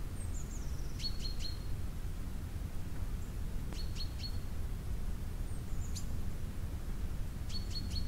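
Small songbirds calling: a short high descending chirp, then groups of three quick, sharp notes repeated about every three seconds. A steady low rumble underneath.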